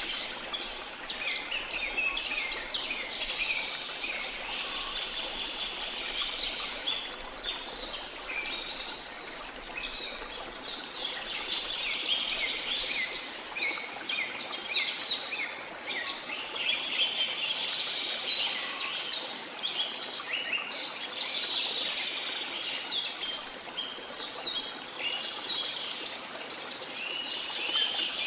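A dense chorus of many birds chirping and trilling at once, rapid high-pitched calls overlapping throughout, over a faint steady rush of falling water.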